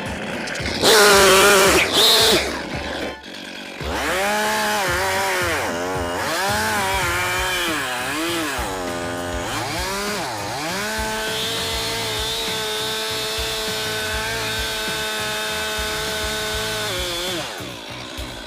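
Two-stroke chainsaw revving up and down several times. About 11 seconds in it is held at steady high revs for some six seconds, as when bucking a log, then drops back just before the end.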